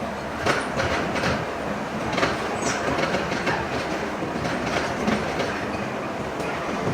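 Workshop machinery running, a steady mechanical din with irregular metallic clanks and rattles.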